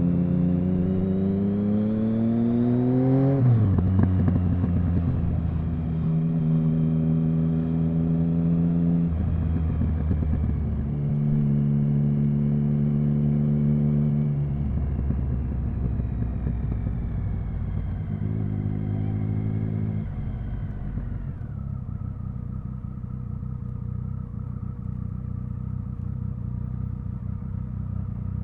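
Triumph Speed Triple 1050's inline three-cylinder engine. Its revs climb for about three seconds, then drop sharply as the throttle closes. It then holds several short spells of steady revs and settles into a lower, quieter steady note for the last several seconds.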